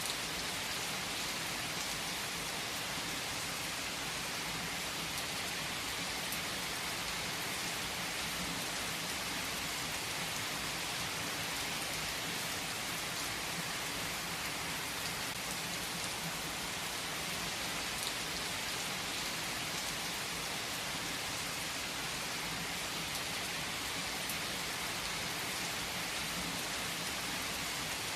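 Steady heavy rainfall, an even hiss of rain on surfaces with a few sharper drop ticks now and then.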